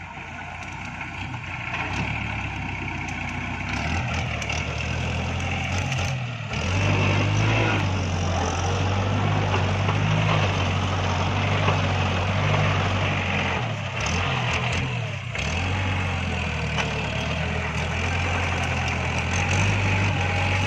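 Iseki NT554 tractor's diesel engine running under work. It grows louder over the first couple of seconds, rises again about six seconds in, and dips briefly twice in the second half.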